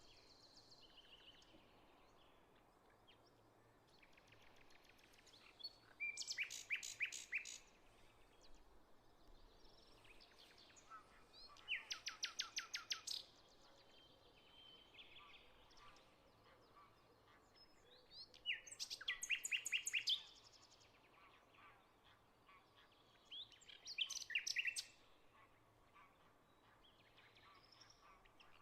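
A songbird repeating a short, fast trilled song phrase about every six seconds, with a few fainter bird calls in between.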